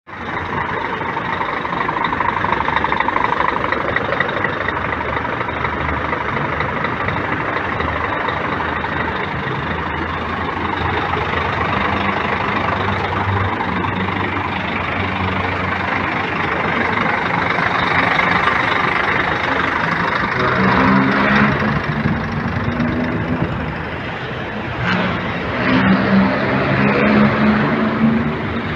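Scania P410 6x4 truck's inline-six diesel engine running steadily, then rising and falling in pitch a few times in the last third as it revs.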